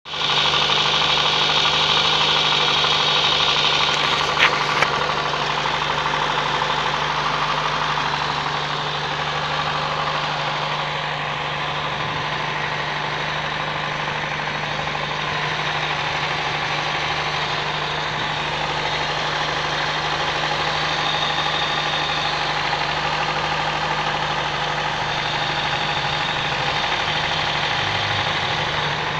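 Car engine idling steadily, heard close up at the open engine bay, with two sharp clicks about four and a half seconds in.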